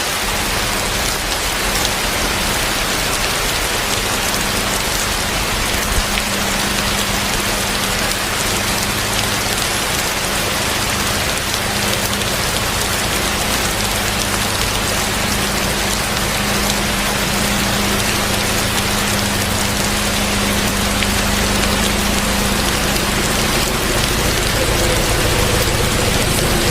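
Heavy rain pouring steadily, with a steady low hum under it. Near the end a low engine sound grows in.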